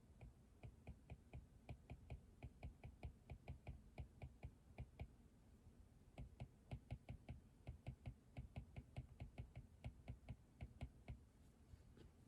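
Faint computer keyboard typing: two steady runs of keystrokes at about five a second, with a pause of about a second in the middle.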